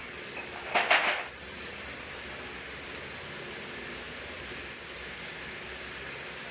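A short, loud clatter about a second in, over a steady background hum.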